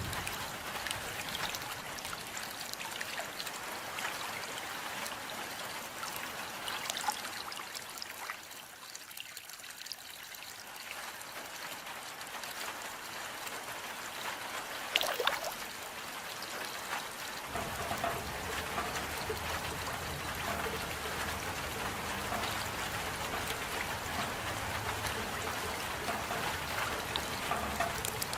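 Rain falling, with close drops and trickling water; a sharp louder drip comes about halfway through, and a low rumble joins in soon after.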